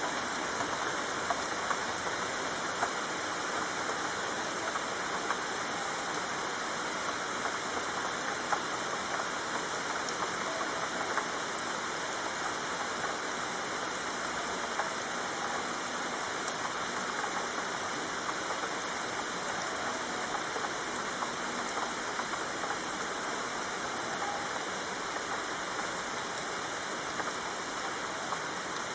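Steady rain falling on leaves and ground, an even hiss with occasional slightly louder drops.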